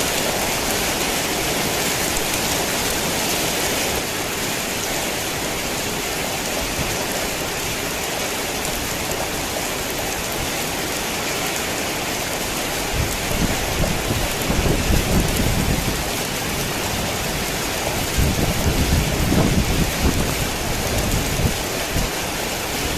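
Heavy rain pouring steadily, with two low rumbles of thunder in the second half.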